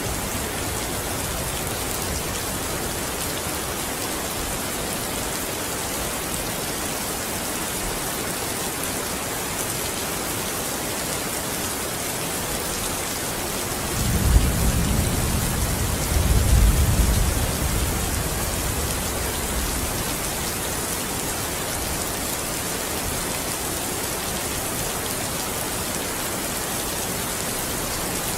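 Steady rain falling on a window, with a low rumble of thunder swelling in about halfway through and fading a few seconds later.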